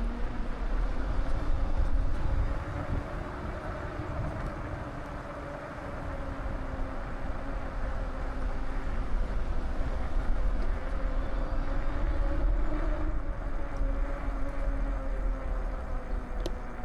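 Wind rumbling on the microphone of a moving bicycle, with a faint steady whine underneath throughout.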